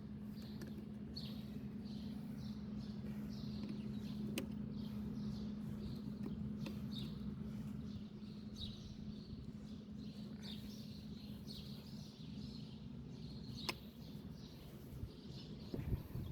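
Birds chirping repeatedly over a steady low hum that stops with a click about three-quarters of the way through; a few sharp clicks.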